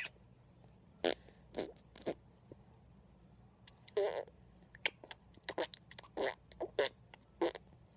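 A string of short, sudden mouth noises, like pops, smacks and burp-like blurts, about nine in all with uneven gaps. The longest and loudest comes about four seconds in.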